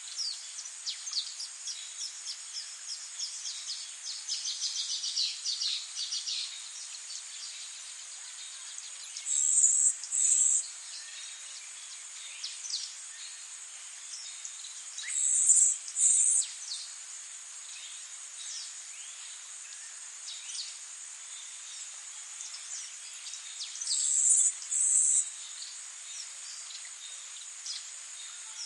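Outdoor ambience of a steady, high insect chirring with small birds chirping over it. A quick run of chirps builds over the first six seconds. Three louder, high, two-part buzzy calls come several seconds apart.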